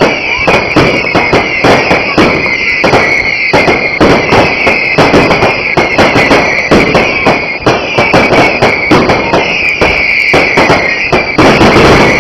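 A firework barrage firing rapidly, with many bangs and crackles a second, over a continuous high-pitched whine.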